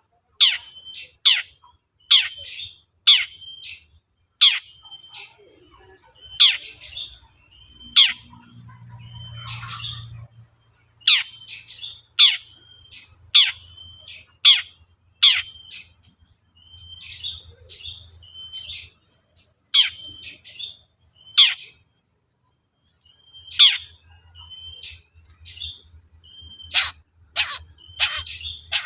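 Long-tailed shrike singing: a run of sharp, harsh notes about one a second, most trailed by a short whistled tone, broken by a few brief pauses.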